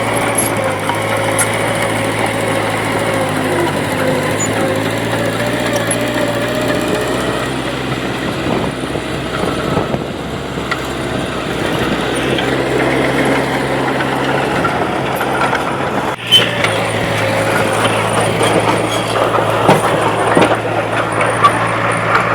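Diesel engine of heavy earthmoving machinery running steadily under work, with a wavering whine over the engine note and scattered clanks, and one sharp knock about sixteen seconds in.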